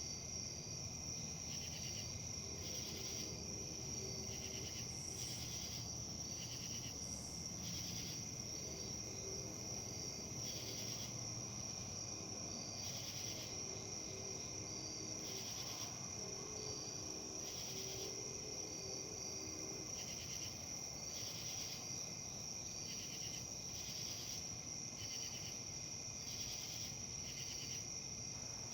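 Insects chirping: one steady high trill with crickets pulsing over it at an uneven rhythm, above a soft low background hiss.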